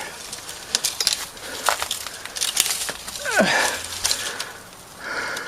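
Cut branches and twigs cracking and crackling as they are handled, with a short falling tone about three seconds in.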